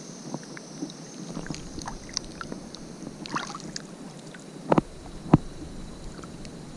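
Steady outdoor water and wind noise with scattered small clicks, broken by two sharp knocks about half a second apart near the end.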